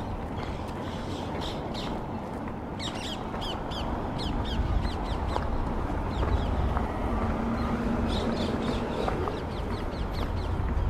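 Birds chirping in quick runs of short, falling notes, twice, over a steady low rumble of city traffic.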